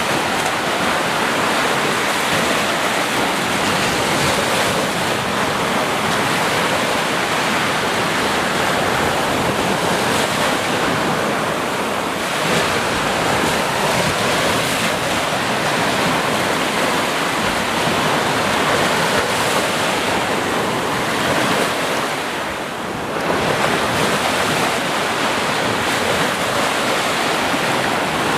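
Sea surf: waves breaking and washing in a continuous, steady rush, with a brief lull about three-quarters of the way through.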